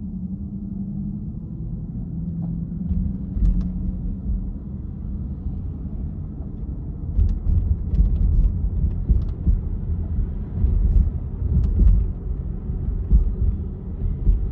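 Car driving on city streets: a steady low rumble of road and engine noise, with a few short knocks or bumps now and then.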